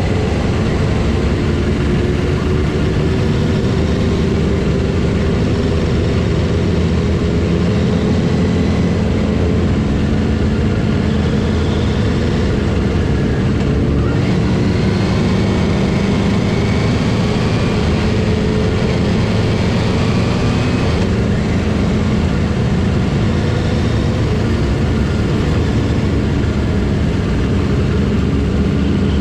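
Motorcycle engines running steadily on the move, their pitch drifting slowly up and down over a continuous low rumble.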